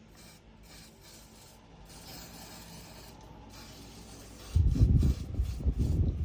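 Soft rubbing and rustling. About four and a half seconds in, loud, irregular low rumbling and bumping starts suddenly.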